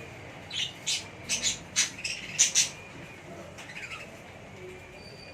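Budgerigars giving a quick run of harsh, squawking calls over the first three seconds, then only faint chirps.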